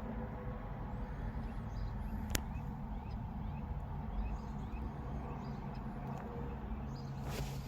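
Steady outdoor background rumble with faint, scattered bird chirps, a single sharp click about two and a half seconds in, and a short rustle near the end.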